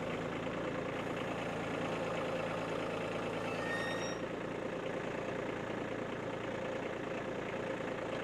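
Kubota tractor engine running steadily at an even pitch.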